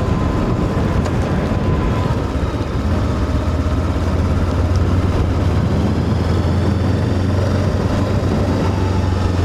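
Voge DS525X parallel-twin motorcycle engine running at a steady low pitch while being ridden, with no gear changes or revving.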